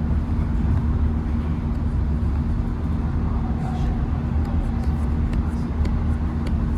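Class 165 diesel multiple unit running, a steady low rumble with a constant hum.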